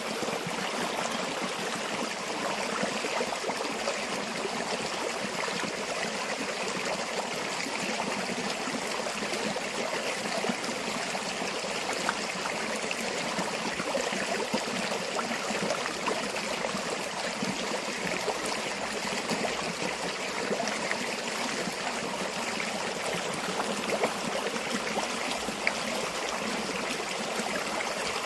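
A river or stream flowing steadily over stones, an even rushing and babbling with small splashes.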